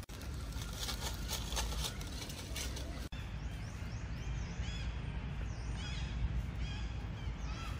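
Outdoor ambience with a steady low rumble. A crackly rustle fills the first three seconds; after a sudden break, short high bird chirps repeat many times.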